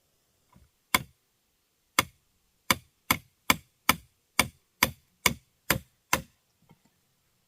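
Repeated sharp strikes of a hand tool during building work: two spaced blows, then a quicker run of about two a second that stops a little after six seconds in.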